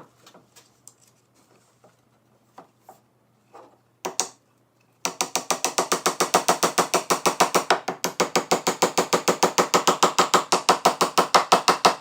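A few scattered knocks, then from about five seconds in a rapid, even ratchet clicking, about eight clicks a second, running on without a break.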